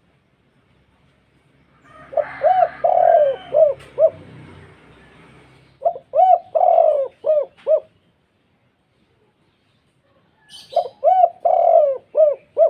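Spotted dove cooing in three phrases of about five deep notes each, a few seconds apart: the deep, full-voiced call that makes rival spotted doves answer.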